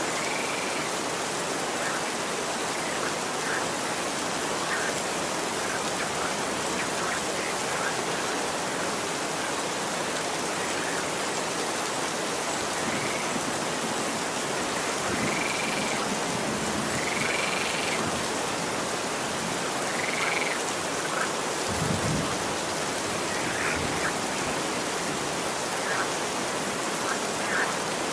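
Steady, even rain falling on a street, with a few short high calls, frog-like croaks, scattered through it and a brief low rumble about two-thirds of the way in.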